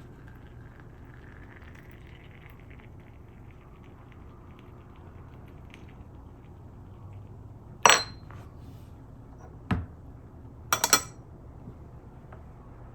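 Teaware clinking while tea is made: one sharp ringing clink about 8 s in, a duller knock near 10 s, and a quick run of clinks around 11 s, over a faint steady hum.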